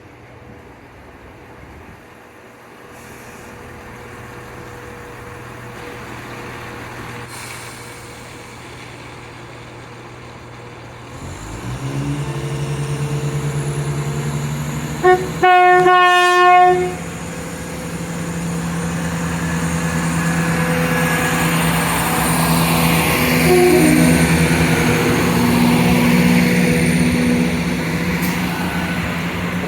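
Diesel train approaching, its engine growing steadily louder and stepping up in note partway through, then a loud horn blast about halfway in. The engine runs on loud and steady to the end as the train comes by.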